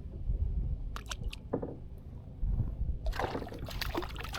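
Water sloshing and splashing against the hull of a small paddle craft, louder from about three seconds in, over a low wind rumble on the microphone. A few light clicks about a second in.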